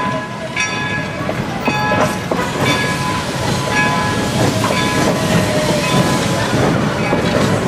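Steam locomotive's bell ringing about once a second while wooden passenger coaches roll slowly past, their wheels clicking over the rail joints, with a brief squeal about halfway through.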